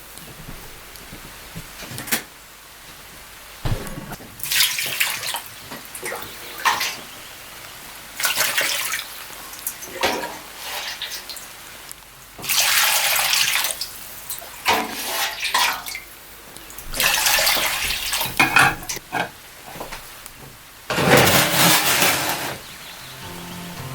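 Water running in short bursts, starting and stopping about seven times, with a few small knocks between them.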